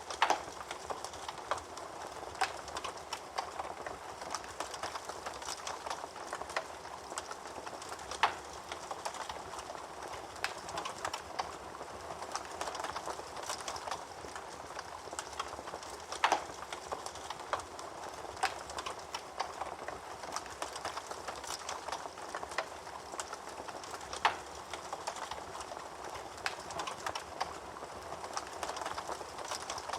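Wood fire burning in a fireplace: a steady bed of crackling, with a sharper, louder pop about every eight seconds.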